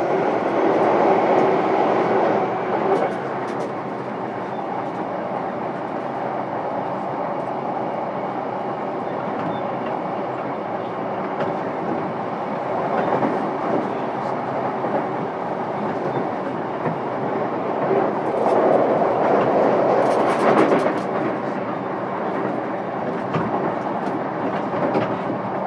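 Running noise heard inside a JR East E233-7000 series commuter train motor car, MoHa E233-7221: a steady rumble of wheels on rail with scattered rail-joint clicks. The noise swells louder about a second in and again from about 18 to 21 seconds in.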